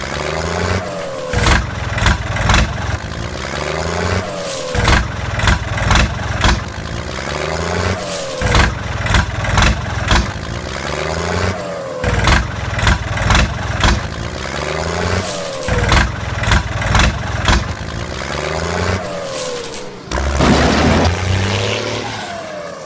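Looped heavy-vehicle engine sound effect: an engine revving and labouring, with knocks and clatter, repeating in the same cycle about every four seconds, six times over.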